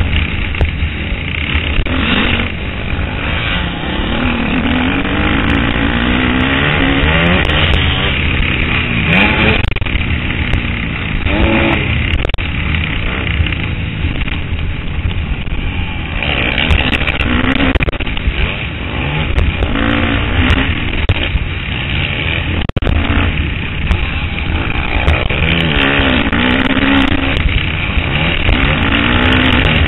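KTM 250 SXF four-stroke single-cylinder motocross engine revving up and down over and over as the bike is ridden hard, the pitch climbing and dropping every few seconds. Heavy wind buffeting on the helmet-mounted microphone runs underneath.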